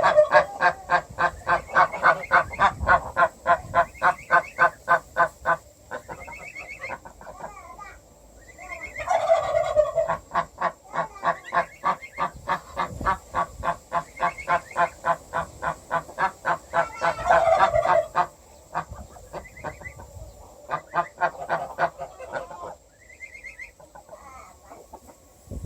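Domestic geese honking in long runs of rapidly repeated calls, about four or five a second. There are three bouts, each opening with a louder call.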